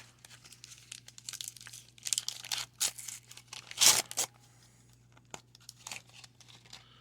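Crinkling and tearing of a 1990 Donruss wax-paper card pack and the rustle of stiff baseball cards being handled, in irregular scratchy bursts, the loudest about four seconds in.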